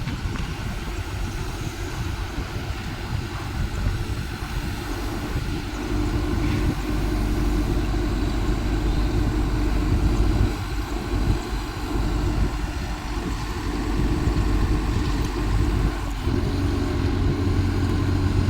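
Caterpillar excavator's diesel engine running steadily, growing louder twice as it works, about six seconds in and again near the end.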